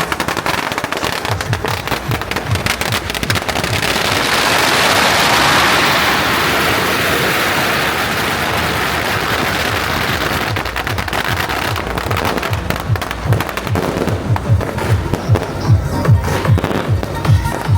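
Firecrackers and fireworks set off as a welcome salute, crackling densely, swelling into a thick hiss of bangs in the middle and ending in a quick run of low booms.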